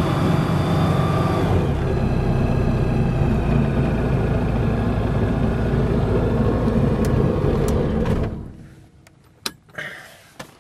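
Lightwing SP2000 ultralight's engine and propeller running at high revs on a ground run-up, the pitch of the note dropping a little about a second and a half in. The fine-pitch stop has been set so the propeller holds about 5,800 revs at full throttle. About eight seconds in, the engine is shut down and dies away, followed by a couple of knocks.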